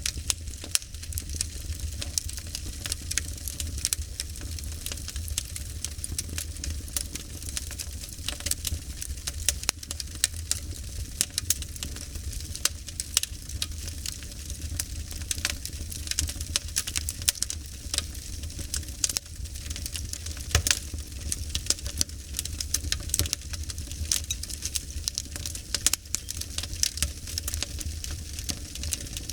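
Wood fire crackling steadily, with dense irregular pops and snaps over a soft hiss and a low, even rumble beneath.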